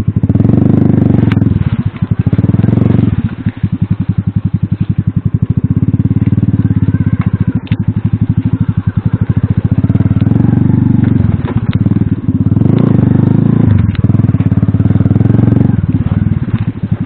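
Alpha moped's small single-cylinder four-stroke engine under riding load off-road, the throttle opened and eased off several times so the engine note swells and drops, with occasional crackles from the trail.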